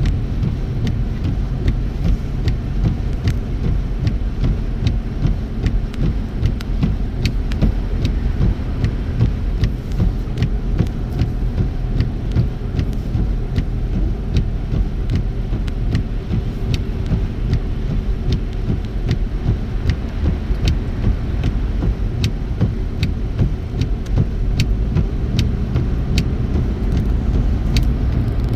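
A car driving on a snowy highway, heard from inside: a steady low rumble of tyres and engine, with many faint sharp ticks scattered irregularly throughout.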